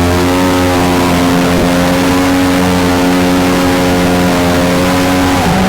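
Mini jet boat engine running at a steady high speed under a haze of wind and water noise. The engine note drops near the end as the throttle comes back.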